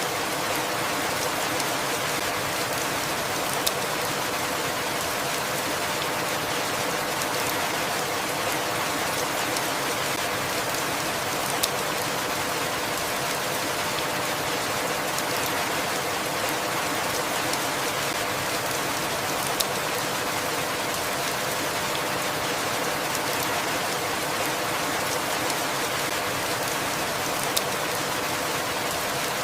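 Steady rainfall, an even hiss of rain on surfaces, with a single sharper drop-tick four times at even intervals.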